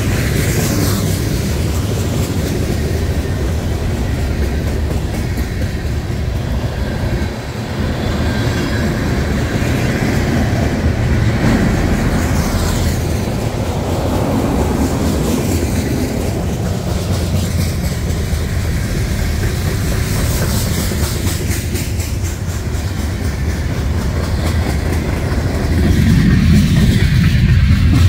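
Freight train cars rolling past: a steady rumble of steel wheels on the rails with rhythmic clicking as the wheels cross rail joints.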